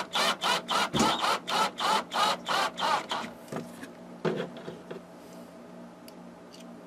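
Rhythmic scraping strokes, about three a second, that stop about three seconds in, followed by a few faint clicks over a steady low hum.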